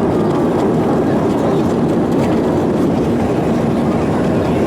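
Steady, loud roar of an Airbus A320-214's CFM56 engines and slipstream heard inside the cabin during the climb shortly after take-off.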